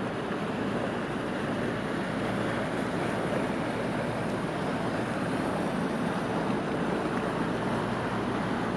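Inland barge under way: a steady rush of water and wind over a low, even engine drone.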